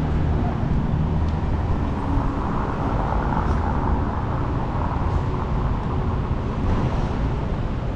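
Steady city street traffic: running engines and tyre noise of passing vehicles, swelling a little in the middle as one vehicle passes closer.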